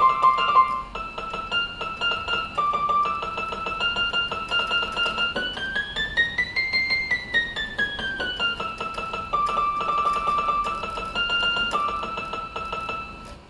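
Casio CTK-481 electronic keyboard playing a melody in a rapidly repeated plucked-string tone, with a run rising and then falling in pitch midway. It stops abruptly at the end.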